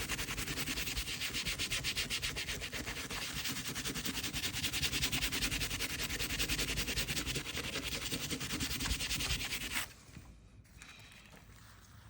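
Fast, even hand-rubbing strokes that keep a steady rhythm, then stop suddenly about two seconds before the end.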